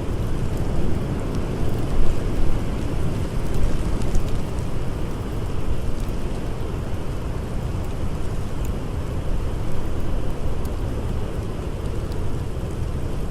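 Blizzard wind blowing steadily with a deep rumble, with a few faint sharp crackles from a wood fire scattered through it.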